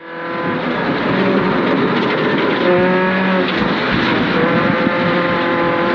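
Subaru Impreza 2.5RS rally car's naturally aspirated flat-four engine running hard under load, with road and tyre noise; its pitch shifts a few times as the revs change.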